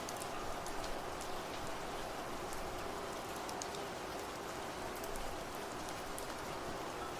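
Steady rain, with individual drops ticking sharply on a surface throughout.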